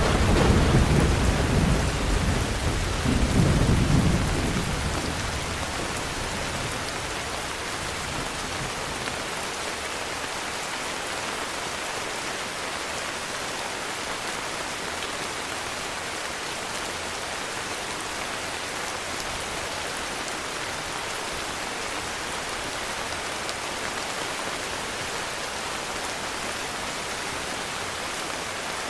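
Heavy rain falling steadily, with a roll of thunder rumbling over the first few seconds, swelling twice before dying away into the even hiss of the rain.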